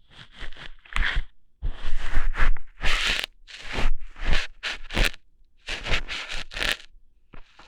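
ASMR ear-hair plucking sounds: a series of about eight short, crackly tearing pulls and scrapes with brief pauses between them.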